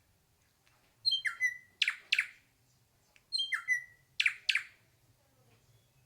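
Hair-crested drongo calling: two matching phrases, each a quick run of short high notes and a brief held note, then two loud harsh notes.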